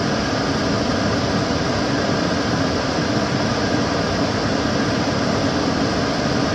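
Kitchen cooker hood extractor fan running steadily: a constant airy whoosh with a low rumble and no change.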